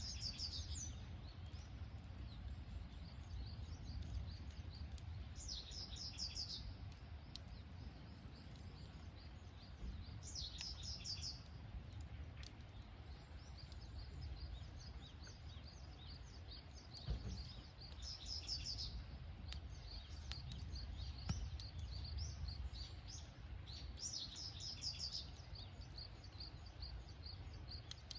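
Night insects chirping: a burst of high trilling comes about every five to six seconds over a faint, steady high chirring. Occasional sharp pops of a crackling campfire sound over a low rumble.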